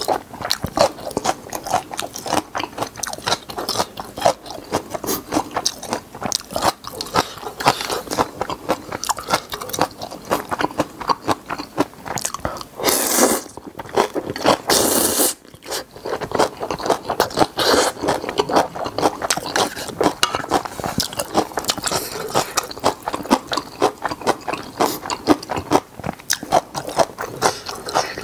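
Close-miked, wet chewing and crunching of spicy instant noodles and napa cabbage kimchi, a rapid, unbroken run of small crunches and mouth clicks. About halfway through come two louder, longer noisy sounds, each under a second.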